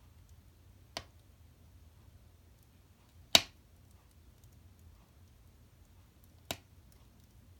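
Firewood burning in a fireplace, crackling: three sharp pops about a second, three seconds and six and a half seconds in, the middle one loudest, with a few faint ticks between them over a low hum.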